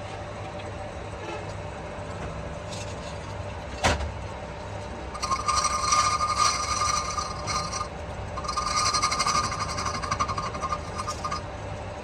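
Metal lathe running with a steady low hum and one sharp click, then from about five seconds a loud, rapidly pulsing buzz of the tool cutting metal, pausing briefly near eight seconds.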